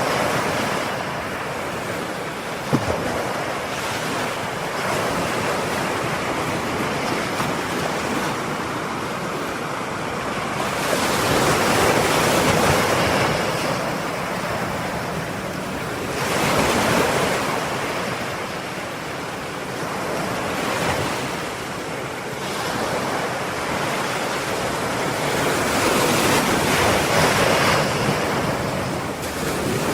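Ocean surf, a continuous rushing wash of waves that swells louder every five seconds or so as sets come in. There is one short sharp click about three seconds in.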